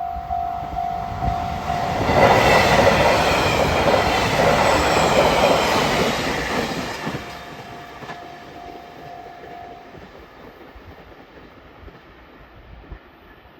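A JR Hokkaido 789 series 1000 limited express train passing, loud for about five seconds and then fading away. A repeating ding, about two a second, sounds at first, stops as the train arrives, and comes back faintly after it has gone by.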